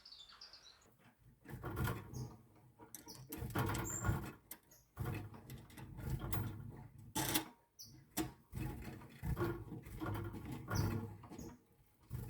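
Irregular handling noise of rustling and light knocks, with a few short high chirps from pet birds scattered through it.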